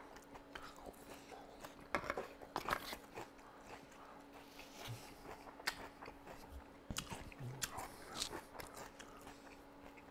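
Close-miked chewing of food: scattered wet mouth clicks and small crunches at irregular intervals, faint overall.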